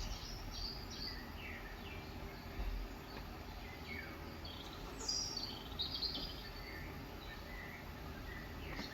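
Birds chirping, short high calls scattered through, over a steady background noise.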